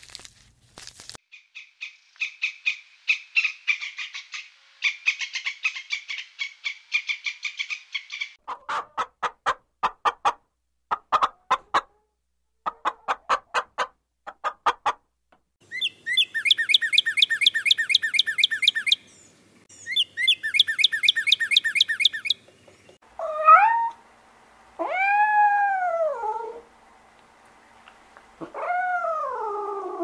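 Runs of short repeated calls from unseen animals give way to a northern cardinal singing two fast runs of sliding whistled notes. A domestic cat then meows three times, each meow rising and then falling in pitch.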